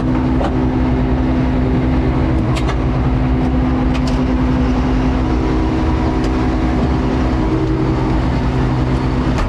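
Ferrari F12's twin-turbo V12 idling steadily, with a few faint clicks.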